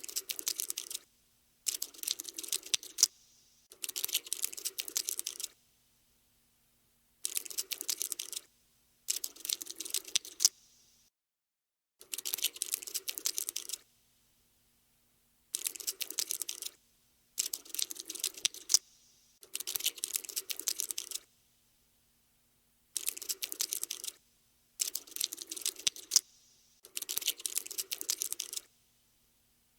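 Cockroach scuttling sound effect: bursts of fast, dry clicking and scratching, each a second or two long, starting and stopping with short silences between them.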